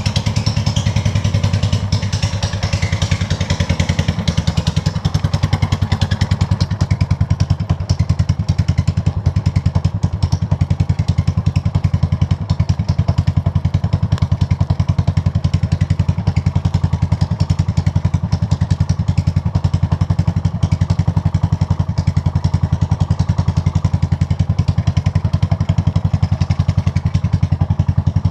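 Buell Blast's single-cylinder engine idling steadily, a fast even beat of firing pulses, its carburetor freshly fitted with a new jet kit.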